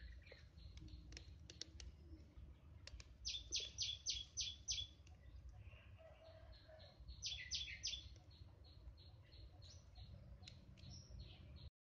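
Small bird chirping outdoors: a quick run of about six sharp, high chirps a few seconds in, and a shorter run of falling chirps about seven seconds in, with scattered faint high calls between, over a low background rumble.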